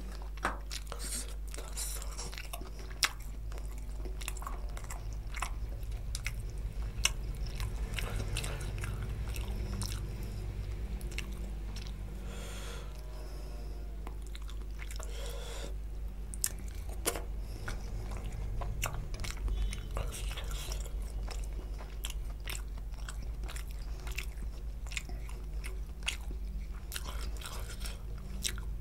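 Close-miked chewing of spicy mutton curry, with wet mouth sounds and many short, sharp clicks, over a steady low hum.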